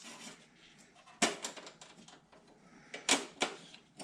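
Metal firewall panel of a John Deere 317 garden tractor knocking and scraping against the frame as it is worked down into place. There is a sharp knock about a second in with a few quick rattles after it, then two more knocks near the end.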